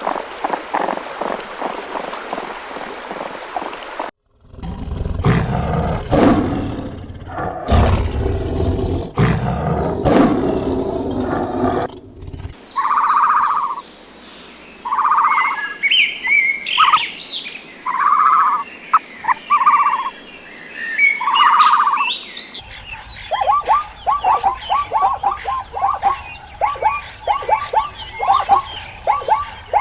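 Wild animal calls in several separate recordings: loud low-pitched calls, then a bird repeating short hooting notes among higher chirps, then rapid chattering trills.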